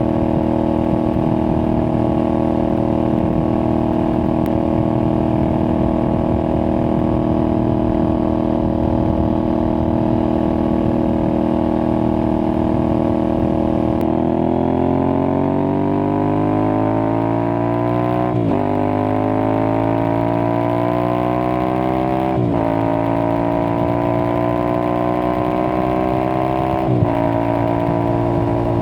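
Aprilia Tuareg 660 parallel-twin engine through a replica Akrapovic exhaust, running at a steady cruise, then accelerating hard about halfway through. It climbs in pitch through the gears, with three quick upshifts.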